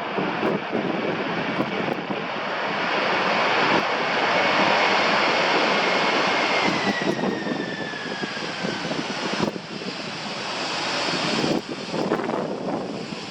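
Jet aircraft passing close by: a loud engine rush with a high whine that drops in pitch as it goes past, and gusts of wind buffeting the microphone.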